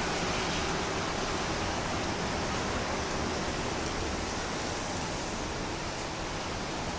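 Steady, even outdoor rushing noise with no distinct events, in the stormy weather after a typhoon.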